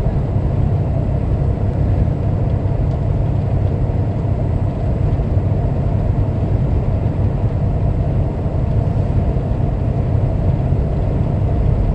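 Steady low rumble of a semi-truck's engine and road noise inside the moving cab.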